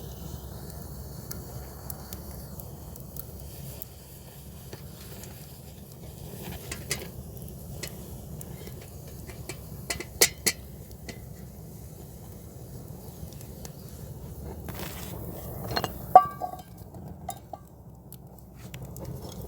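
Scattered clinks and knocks of hard objects, like metal or glass utensils handled, over a steady low background. The loudest are a sharp double click about ten seconds in and a clink with a brief ring about sixteen seconds in.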